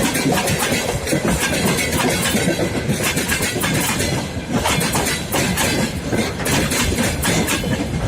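Freight train rolling past, its wheels clattering over the rail joints in a steady stream of clicks.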